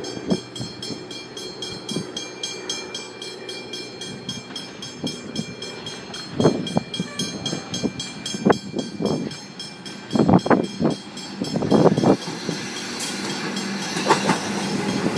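Comeng electric suburban train pulling into the station, its wheels knocking over the rail joints in irregular clusters and the sound growing louder near the end, with wind on the microphone.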